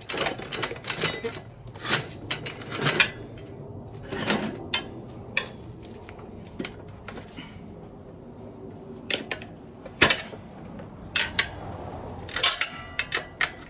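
Steel tire irons clinking and clanking against a dirt bike wheel rim while the tire bead is levered off. The sharp metallic knocks come at irregular intervals: thick at first, sparse in the middle, then clustered again near the end.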